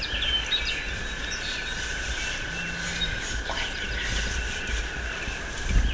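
Small songbirds chirping and calling at dawn, over a low rumble and a steady high-pitched tone.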